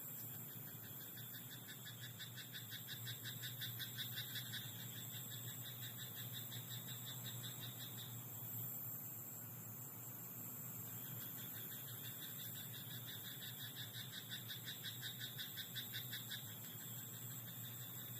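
Frogs croaking in a rapid, pulsing chorus, in two long bouts with a lull of a few seconds midway.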